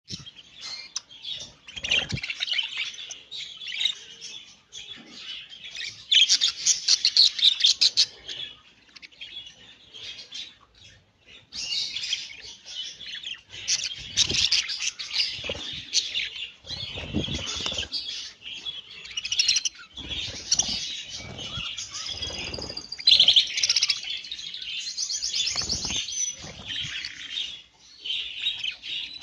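Many small birds chirping and twittering at once, a dense overlapping chatter that goes on almost without a break.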